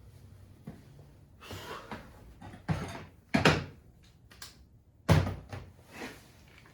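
A series of short knocks and clunks, about half a dozen, the loudest a little past five seconds in, like parts or tools being handled and set down during an engine teardown.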